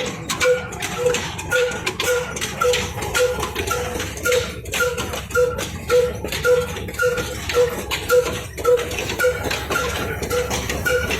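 Old single-cylinder Ruston Hornsby diesel engine running a chaff cutter, with a steady beat about twice a second and sharp clicks and clanks between the beats.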